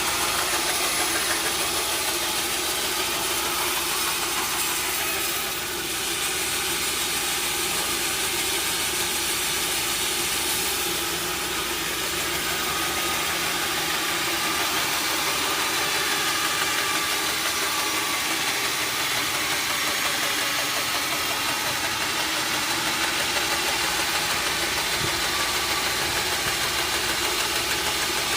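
Sawmill machinery running steadily with a constant engine-like hum and hiss.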